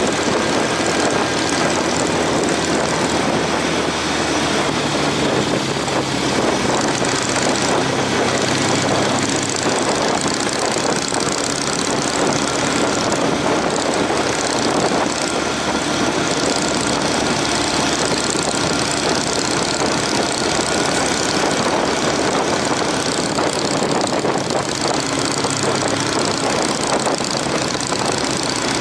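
Honda CB750's inline-four engine running while the motorcycle is under way, under heavy wind noise on the microphone. The engine note changes about five seconds in and again near the end.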